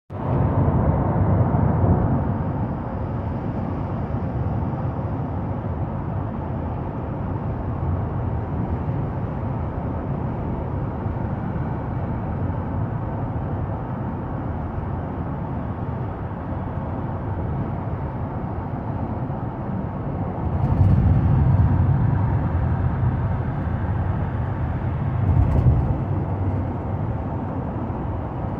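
Steady low rumble of road vehicle noise, with louder swells right at the start, about two-thirds of the way in, and briefly a few seconds later, as vehicles pass.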